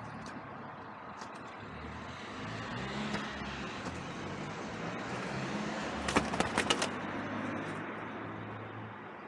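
Wood pigeon wing slaps: a quick flurry of about six sharp claps just past the middle, over a steady hum of road traffic.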